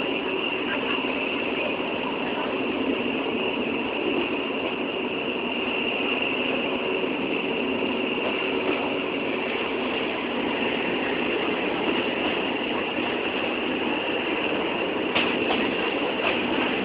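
Train running, a steady mechanical noise with a few sharp clicks about fifteen seconds in.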